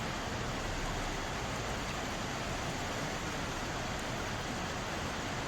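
Mountain stream water flowing and splashing over rocks: a steady, even rushing.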